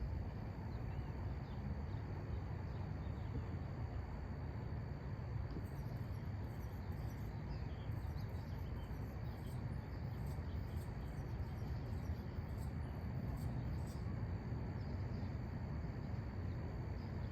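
Quiet outdoor ambience: a steady low rumble with faint, short, high-pitched insect chirps coming in after about five seconds.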